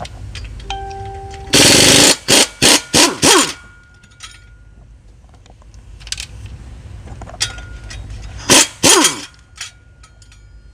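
Impact wrench hammering out the flywheel (flex plate) bolts from the crankshaft in short bursts: one long burst a couple of seconds in, a quick string of short ones right after, and two more near the end, the motor's pitch sliding as it spins up and winds down.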